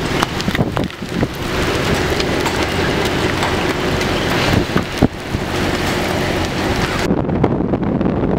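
Heavy thunderstorm rain pelting down with wind, dotted with sharp taps. Near the end it cuts to steady wind buffeting the microphone.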